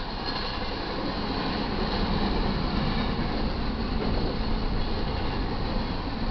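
Double-stack intermodal container well cars of a freight train rolling past, with a steady rumble and rattle of steel wheels on the rails that grows a little louder about two seconds in.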